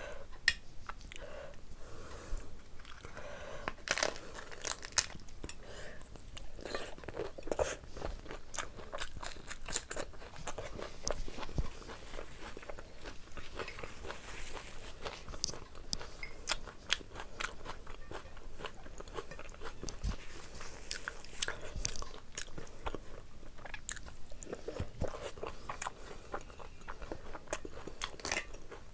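Close-miked eating sounds: chewing and crunching bites, with many small sharp clicks throughout, as mutton curry and rice are eaten by hand along with bites of raw onion.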